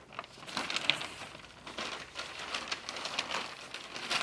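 Paper rustling and crinkling with irregular sharp clicks, as large sheets of drawings are handled and leafed through.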